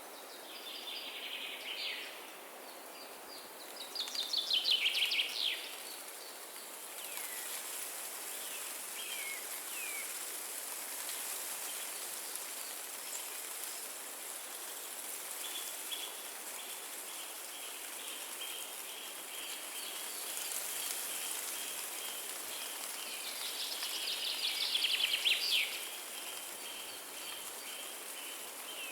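Steady rushing of wind through forest trees, with songbirds singing: three bursts of quick, high, trilling notes, the loudest about four seconds in and again near the end. From about halfway a quiet chirp repeats evenly in the background.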